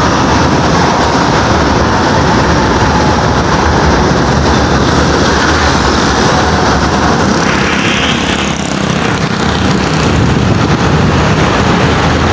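Road traffic with trucks passing close by: steady, loud engine and tyre noise, changing in character about seven to eight seconds in as one vehicle gives way to the next.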